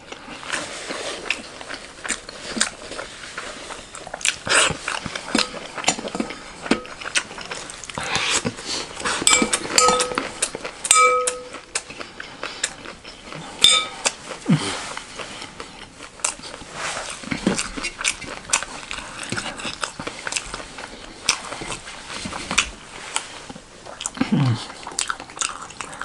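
Close-miked eating sounds: biting and chewing of chicken momo and crunchy chatpatey, with many small wet clicks and crackles. There are a few ringing clinks of tableware about ten seconds in, and brief low murmurs from the eater later on.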